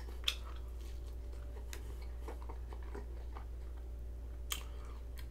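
Soft chewing with a few faint, scattered mouth clicks as a man eats a donut chicken sandwich, over a steady low hum.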